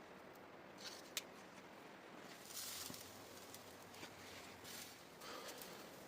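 Faint scattered rustles and a single sharp click about a second in, over a low steady background hiss.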